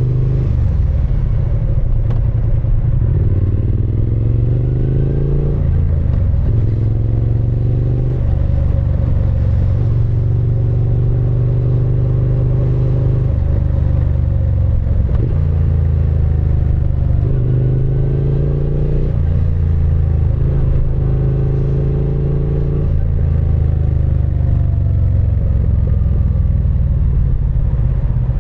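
Triumph Speed Twin 900's 900 cc parallel-twin engine and exhaust running under way, the engine note climbing in pitch and dropping back several times as the bike is ridden.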